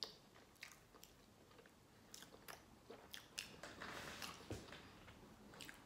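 Faint chewing of a mouthful of instant noodles, with scattered soft wet mouth clicks and smacks.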